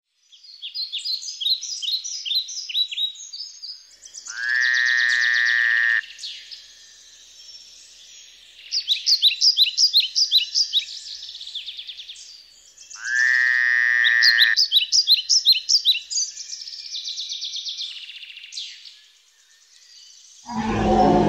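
Library forest-ambience sound effects: birds chirping in fast repeated series, twice broken by a louder buzzing, croak-like call about a second and a half long. Near the end a deep growl starts.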